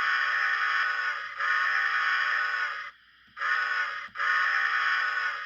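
Recorded steam-whistle sound from an HO scale Bachmann steam locomotive's DCC sound decoder, played through the model's small speaker as several steady chime-like blasts with short breaks between them.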